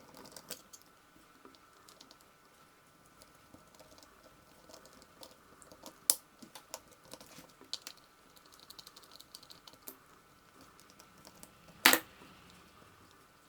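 Small scattered clicks and taps of hands and a small screwdriver working on a 1/14-scale RC car's plastic and metal parts and screws. There is a sharper click about halfway through and a louder one near the end.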